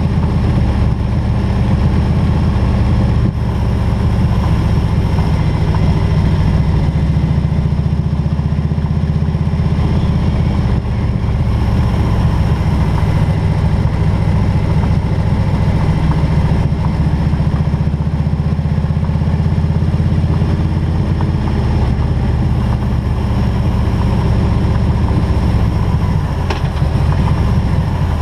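Harley-Davidson Road King's V-twin engine running steadily under way, with a deep low rumble that holds nearly constant.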